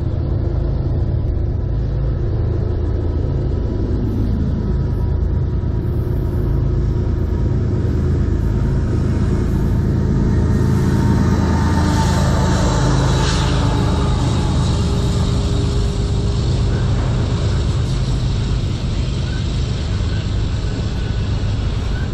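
Freight train passing close by: two CN diesel locomotives and then autorack cars rolling past, a steady heavy rumble of engines and wheels on the rails. The sound grows brighter for a few seconds about halfway through, as the locomotives go by.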